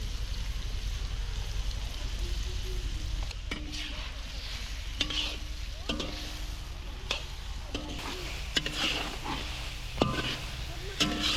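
Food sizzling as it fries in a metal pan, stirred with a metal utensil that clinks and scrapes against the pan several times from about three seconds in, some strokes leaving a short ring.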